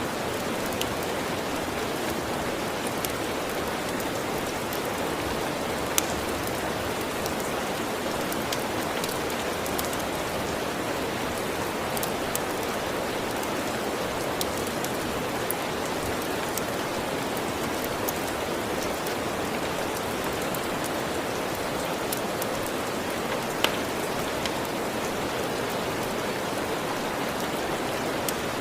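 Steady rain falling, an even hiss with no change in level. A few sharp crackles from a wood fire are scattered through it, two of them louder than the rest.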